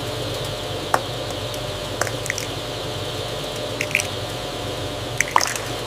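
Steady machinery hum with a hiss, with a few short high peeps from newly hatched chicks scattered through it.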